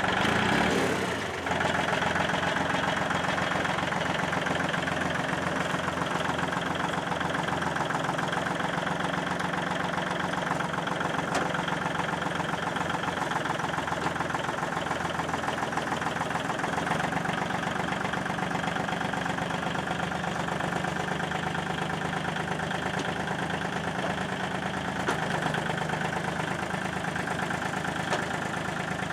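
Vehicle engine idling steadily, its pitch shifting slightly now and then.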